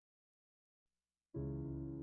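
Silence, then background music starts about a second and a half in with a single sustained piano chord that slowly fades.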